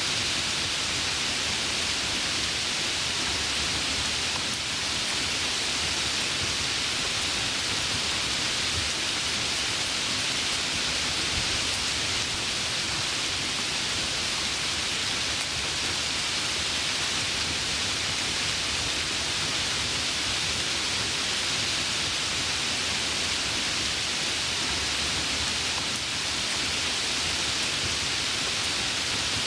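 Heavy rain falling steadily, a dense even hiss with no thunder standing out.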